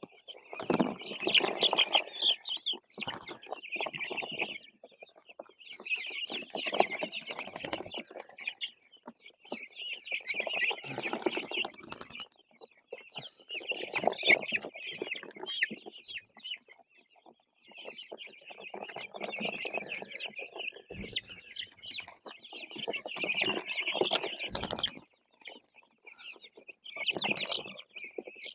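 Young Cornish Cross meat chickens peeping and clucking in repeated bursts every few seconds, with rustling and scuffling under each burst.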